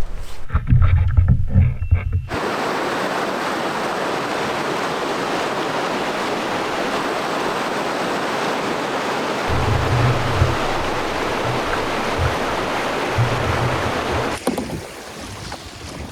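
Steady rush of river water, coming in abruptly a couple of seconds in and easing near the end, with low wind buffeting on the microphone at the start and twice more later.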